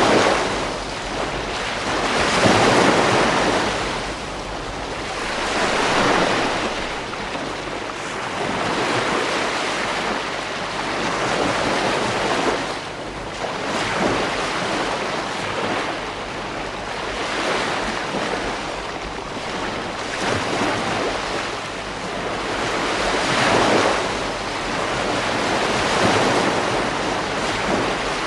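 Ocean waves breaking on a beach, the surf swelling and washing back every few seconds.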